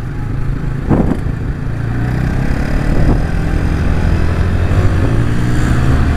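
Yamaha New Vixion Lightning's 150 cc single-cylinder engine running while riding, with wind and road noise. It gets a little louder over the first few seconds.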